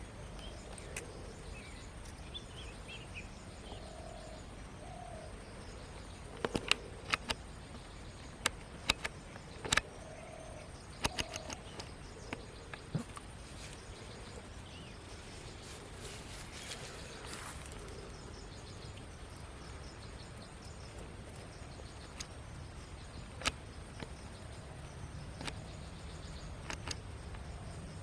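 Outdoor ambience: a steady low background hiss with a few short bird-like chirps and scattered sharp clicks and taps, bunched in the middle and once more later on.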